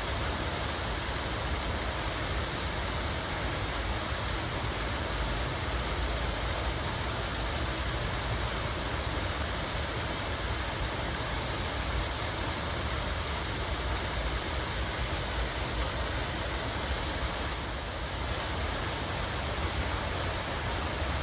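Steady, even rush of flowing water, with no breaks or separate sounds.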